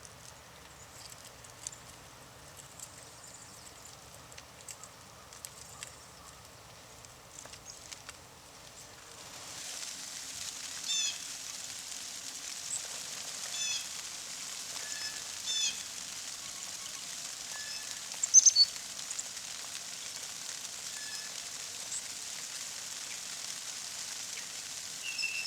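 Small songbirds (chickadees, titmice and juncos) calling at a sunflower seed head. Faint scattered ticks come first. About ten seconds in, a steady background hiss comes up, and several short calls made of quick series of notes follow, with scattered single chips; the loudest call is near the middle.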